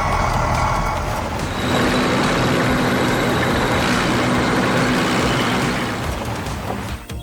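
Heavy construction-vehicle sound effect: a steady noisy rush of engine and air hiss with a low hum, fading slightly near the end.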